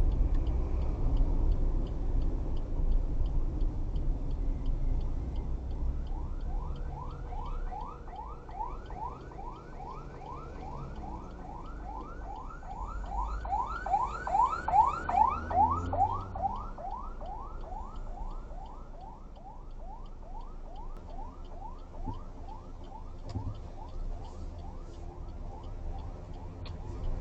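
Scania 410 bus engine rumbling low. From about six seconds in, a rising electronic chirp repeats about twice a second, loudest in the middle and then fading.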